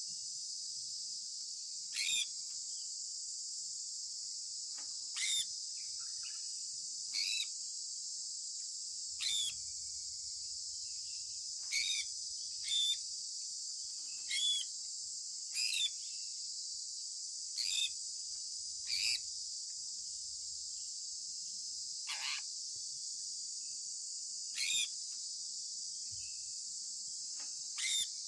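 Sun conure giving short, sharp chirps, about thirteen of them, one every one to three seconds, each dropping quickly in pitch, over a steady high hiss.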